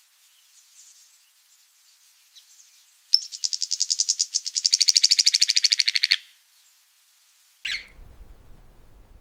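A bird singing: faint high chirps, then a loud, fast, even trill of about a dozen notes a second lasting about three seconds, and one short call near the end.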